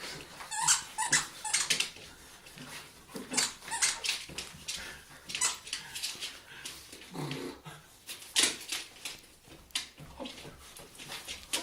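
Dog making short whining and yipping sounds in irregular bursts while playing.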